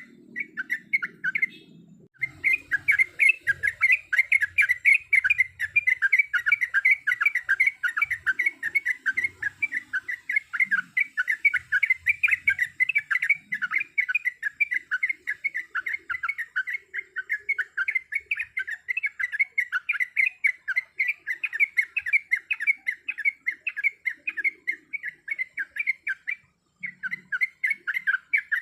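Yellow-vented bulbul (trucuk) singing a long, rapid, continuous chattering series of many quick notes a second. It breaks off briefly about two seconds in and again near the end.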